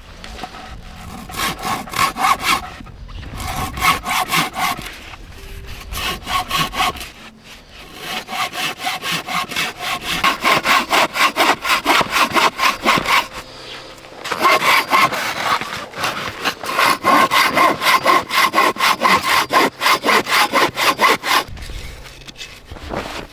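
Folding handsaw cutting through a log in quick, even back-and-forth strokes, about three a second. The sawing comes in several runs broken by short pauses, the longest in the second half.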